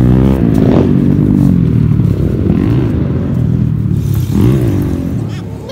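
Dirt bike engine running close by, its pitch rising and falling with the throttle.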